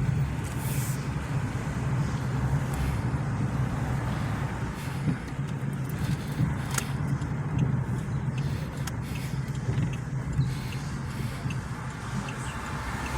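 Car driving, heard from inside the cabin: a steady low engine and road hum, with a few faint clicks.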